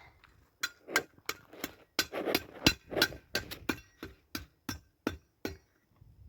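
A quick, irregular run of about fifteen sharp knocks, each with a short clinking ring, over about five seconds.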